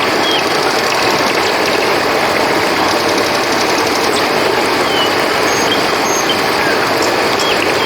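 Steady rushing of flowing river water, with crickets trilling steadily above it and a few short, high chirps scattered through.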